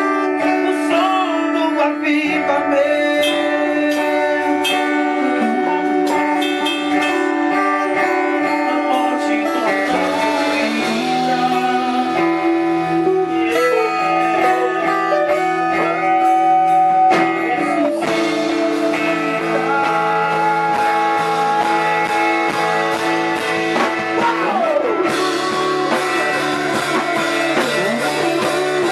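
Live band music with guitar to the fore, playing sustained notes, some of them gliding in pitch.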